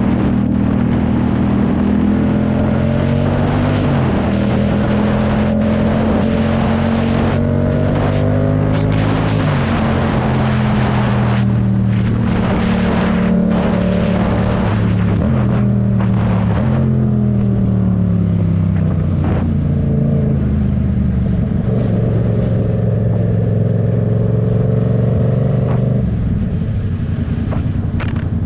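Yamaha MT-07 parallel-twin engine under way, its revs climbing in each gear and then dropping sharply at the upshifts, several times over.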